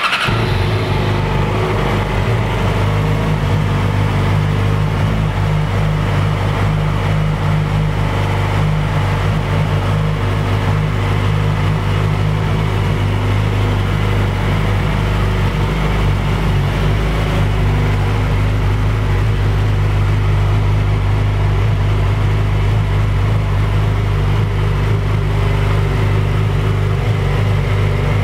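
Yamaha YZF-R6 sport bike's inline-four engine idling steadily just after start-up, with no revving.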